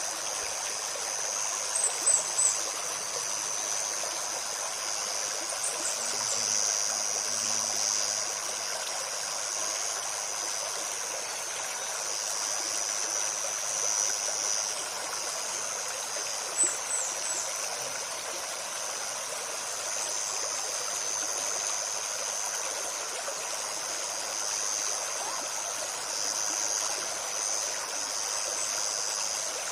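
Shallow forest stream babbling steadily over stones, under a steady high insect buzz. A small bird gives quick high chirps in little runs of three or four, a few times.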